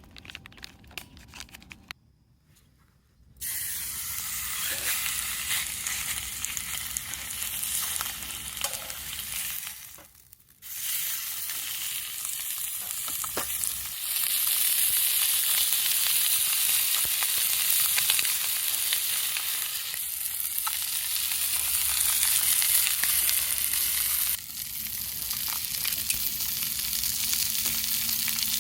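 Chicken sizzling as it fries in a hot pan: a dense, steady hiss that starts after a few crinkling clicks and a short quiet gap, drops out briefly about a third of the way in, and grows louder about halfway.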